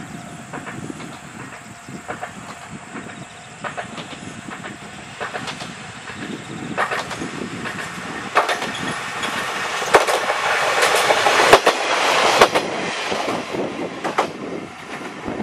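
Kominato Railway KiHa 200 diesel railcar approaching and passing close by, its wheels clacking over the rail joints. The sound builds to its loudest about ten to twelve and a half seconds in, then eases as it goes by.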